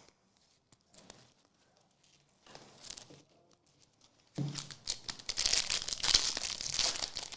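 Trading card pack wrapper crinkling and tearing: a few light rustles, then from about four seconds in a loud stretch of tearing and crinkling.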